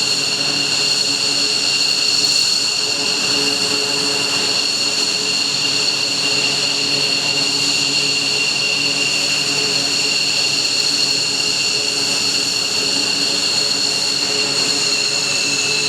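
F-15J fighter's F100 turbofan engines running steadily on the ground with a high-pitched whine of several held tones over the rush of the exhaust.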